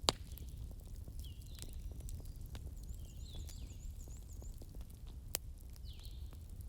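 Wood fire burning: a low steady rumble of flames with scattered small crackles and two sharp pops, the loudest right at the start and another about five seconds in. Short high squeaky whistles come and go throughout.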